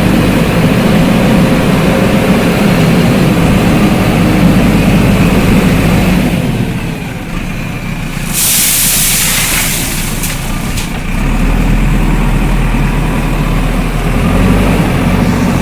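JCB backhoe loader's diesel engine running steadily, easing off for a couple of seconds midway. It is cut by a loud hiss lasting about a second and a half, after which the engine's deep hum comes back stronger.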